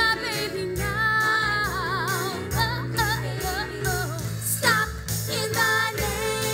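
Women singing a held, melismatic line with wide vibrato over live band accompaniment in a stage musical.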